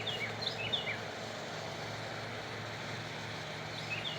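Birds chirping: quick runs of short, high, falling chirps in the first second and again near the end, over a steady low hum.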